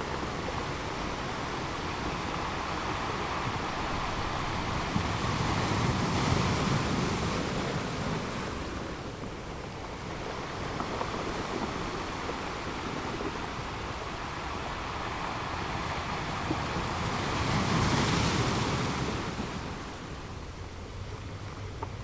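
Ocean waves breaking and washing in a steady surf, with two larger waves swelling up, about 6 and 18 seconds in.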